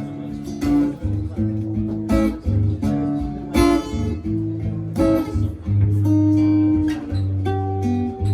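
Guitar playing an instrumental intro: chords strummed one stroke at a time, each left to ring with low bass notes sounding underneath.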